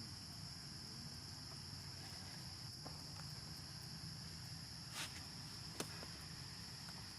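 Steady high-pitched insect drone, a chorus of crickets or cicadas, with two short sharp clicks near the end.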